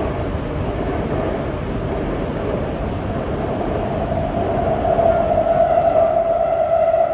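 Chengdu Metro Line 7 A-type train running between stations, heard from inside the car as a steady rumble. A steady whining tone grows louder from about four seconds in.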